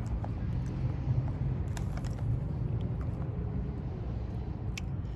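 A steady low rumble with a few faint crunches of someone chewing baked shrimp chips, one near the start, two about two seconds in and one near the end.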